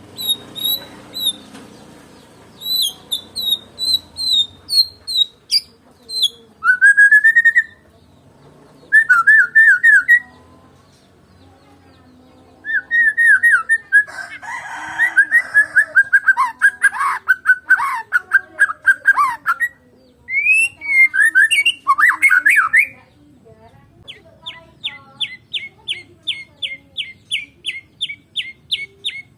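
White-rumped shama (Medan murai batu) singing a long, varied song of loud whistled phrases and rising slurred notes. Near the end it breaks into a fast run of repeated notes, about four a second.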